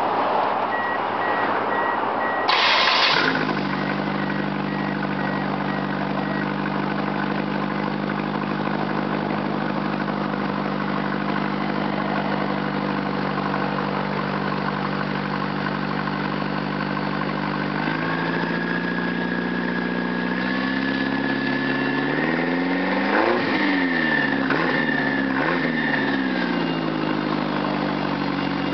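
1995 Ford Escort LX four-cylinder engine with an exhaust leak: it fires up with a short loud burst about three seconds in and then idles steadily. From about twenty seconds in it is revved up and down several times.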